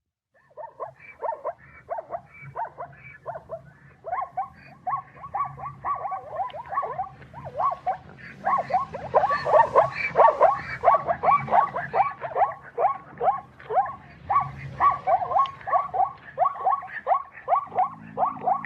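An animal's short, falling calls repeated rapidly, about three a second. They grow louder about eight seconds in.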